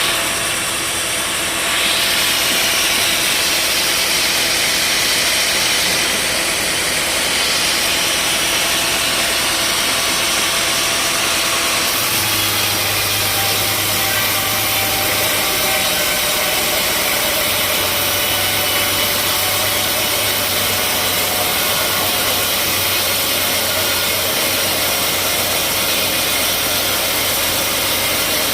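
Sawmill machinery running steadily, with no pauses. The sound shifts about two seconds in, and a low steady hum comes in about twelve seconds in.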